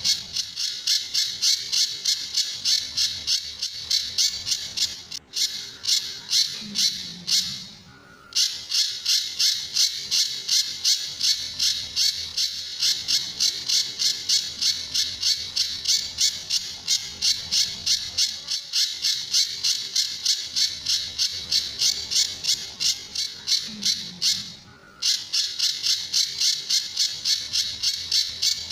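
Pijantur bird calling in a long, rapid run of sharp repeated notes, about three a second, with two brief breaks. This is the bird's 'tembakan' and 'besetan' call: fast, shot-like notes and harsh scratchy notes.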